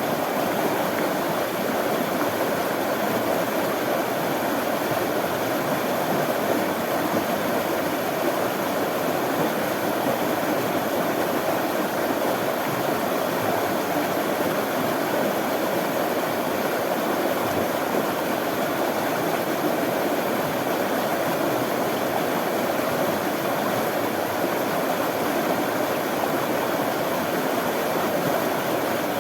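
Running water with a steady, even rushing flow.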